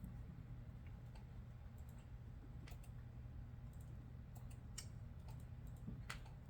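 Faint, scattered clicks of computer keyboard keys, a handful spread over several seconds with the sharpest near the end, over a steady low hum of room noise.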